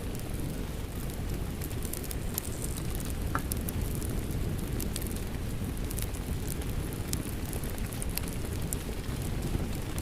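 Wood fire crackling in a fireplace, with scattered sharp pops and snaps about once a second, over a steady low rush of rain.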